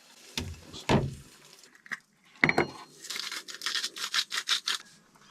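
A utensil scraping back and forth in a frying pan of eggs, in quick repeated strokes, about six a second, for roughly two seconds in the second half.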